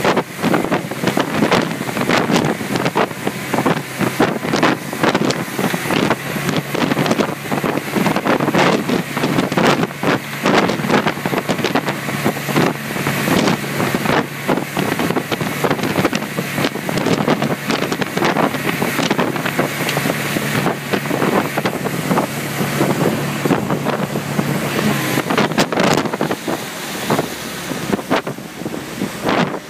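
Wind buffeting the microphone over the steady drone of a fishing boat's engine underway, with a low hum running through most of the clip.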